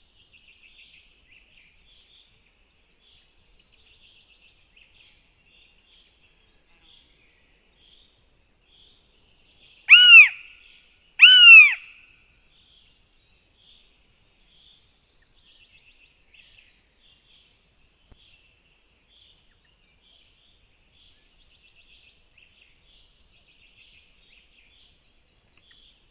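Northern goshawk at the nest giving two loud, drawn-out calls in quick succession, each rising then falling in pitch. Faint chirping runs underneath.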